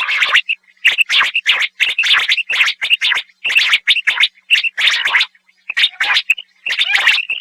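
Common quail calling: a rapid run of short, sharp, high notes, about three a second, broken by brief pauses.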